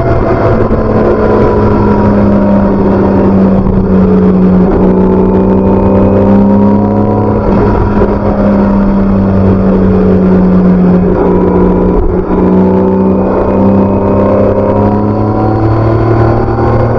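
BMW K1600B's inline-six engine through its stock exhaust, running steadily under way with the pitch drifting slightly up and down.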